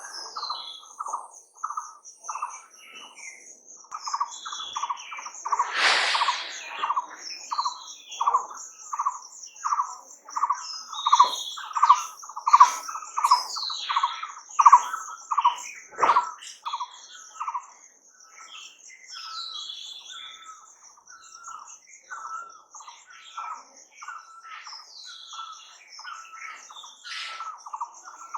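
Birds calling: one bird repeats a short note about two to three times a second, loud through the first half and softer and sparser later, over a steady high trill and scattered chirps. There is a brief rush of noise about six seconds in.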